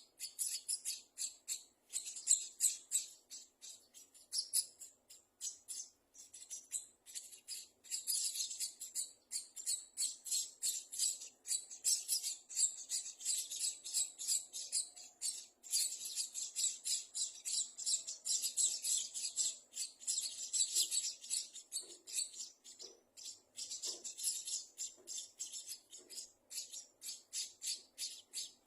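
Emprit jali (munia) nestlings in the nest chirping nonstop, a rapid run of short, high, thin chirps several a second.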